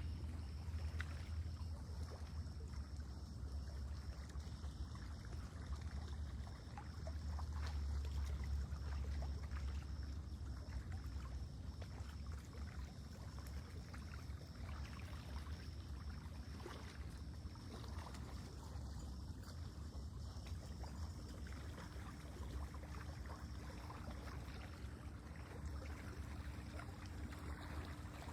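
Lake water lapping gently at the shore in small splashes and trickles, over a steady low wind rumble.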